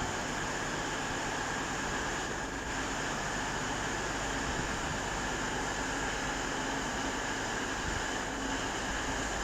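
Freight train running through the station, a steady drone with no clear build or fade.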